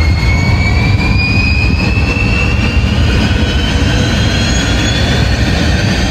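Jet airliner engines running loud, a heavy low rumble under a thin whine that rises steadily in pitch.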